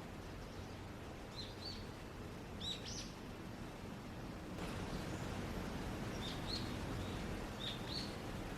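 Small birds chirping outdoors: short high chirps in quick clusters of two or three, four times, over a steady background hiss and hum that grows slightly louder about halfway through.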